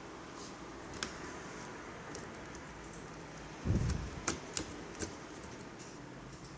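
Netbook parts being handled: a few sharp plastic clicks and one dull knock about halfway through.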